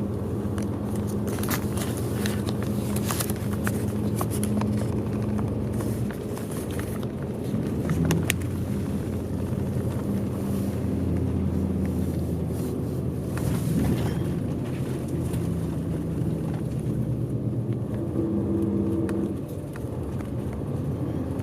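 Diesel engine and road noise of a large bus, heard from inside the cabin while it drives. The engine tone shifts a few times as the speed changes, with light clicks and rattles in the first half.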